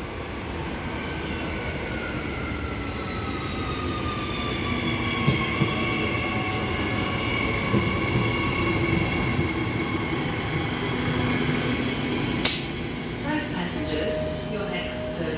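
Electric suburban train pulling into the platform: a motor whine falling slowly in pitch over a low rumble, then high steady squealing as it brakes, with a sharp click about twelve seconds in.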